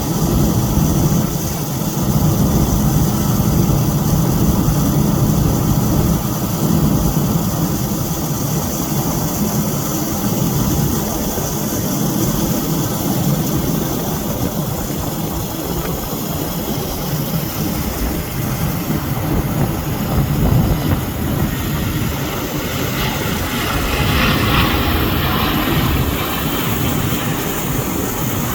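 Airbus A380 jet airliner taking off, its four Rolls-Royce Trent 900 engines at takeoff power: a loud, steady, deep rumble.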